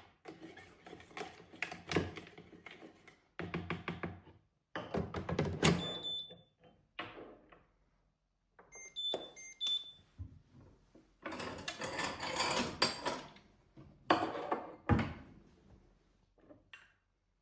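Kitchen handling sounds: irregular knocks and clatter of things being set down and moved, broken by short pauses. A few short electronic beeps come from an appliance around the middle.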